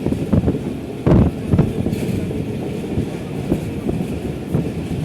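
Moving passenger train running along the track: a steady low rumble of the wheels with irregular clattering knocks over the rails, the loudest about a second in.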